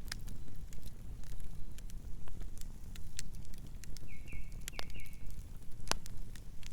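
Campfire burning: irregular wood crackles and sharp pops over a low steady rumble of the flames. A brief run of three or four high chirps comes about four seconds in.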